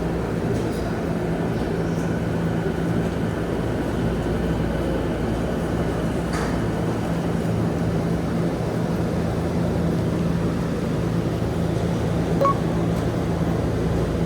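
Commuter train standing at a station platform, with a steady low hum and rumble from its running equipment. A single faint click comes about six seconds in.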